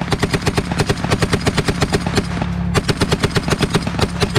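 M1919 Browning machine gun firing blanks in two long bursts of rapid, evenly spaced shots at about eight a second, with a short break about two seconds in. The armoured car's engine is idling underneath.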